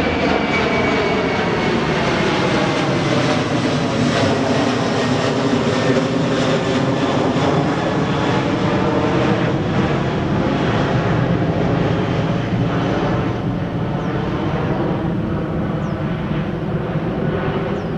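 Airliner's engines running loud as the aircraft passes the runway on takeoff or landing, the engine whine sliding slowly down in pitch and growing fainter over the last few seconds.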